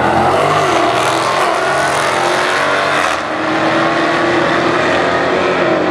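Dodge Challenger Scat Pack Hemi V8s at full throttle down a drag strip, the engine note rising through the gears with a brief dip about three seconds in, then running on at high revs.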